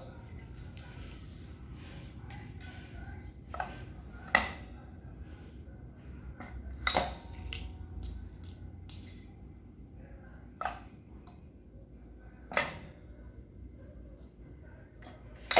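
Irregular light clacks and knocks of wooden ice cream sticks being handled and pressed in a manual heated branding stamp, about a dozen spread unevenly, the sharpest about four seconds in, over a low steady hum.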